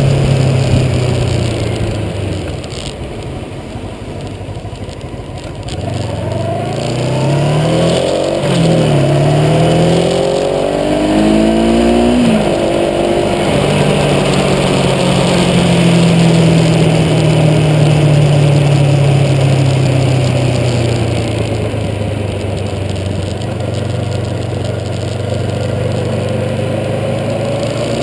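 Engine idling, dropping a little quieter a few seconds in, then revved in several quick blips with the pitch rising and falling. It is then held at higher revs for several seconds, easing slowly back down to a steady idle.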